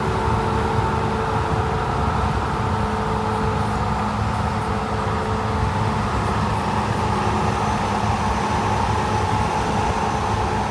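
Pickup truck driving on the road: steady engine and tyre noise.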